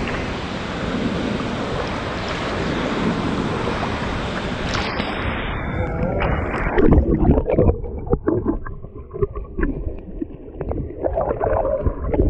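Steady rush of falling water, then about five seconds in it cuts abruptly to quieter, uneven low rumbles and scattered knocks.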